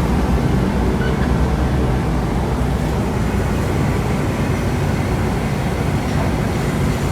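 Steady wind rush and low road rumble on the microphone from riding a motorcycle.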